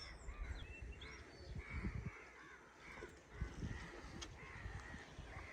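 Crows cawing repeatedly, fairly quiet, with a few faint high chirps from a smaller bird early on. Low thumps of wind or handling on the microphone come through twice.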